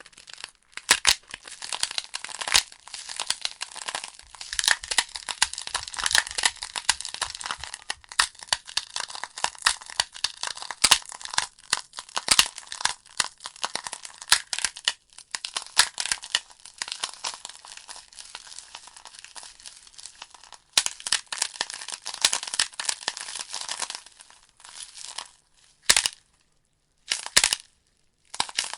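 Logs burning in a fireplace, crackling and popping in quick irregular snaps. The crackle thins out in the last few seconds to a few separate pops.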